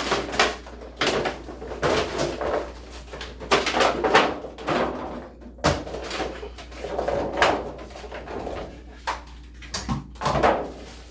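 Close handling noises from unpacking a new Delta shower head: irregular clicks, knocks and rustling of its box and packaging.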